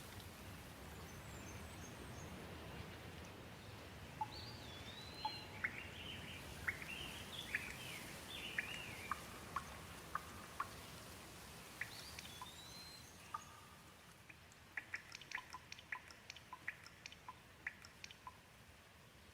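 Light rain hissing steadily while a bird calls over it: a few rising-and-falling whistles and a run of short chirps. The rain eases about two-thirds of the way through, followed by a quick series of short ticks.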